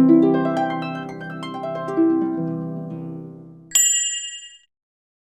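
Cartoon sound effect: a quick run of plucked harp notes, each ringing and fading. Near the end comes a short, bright ding that fades out.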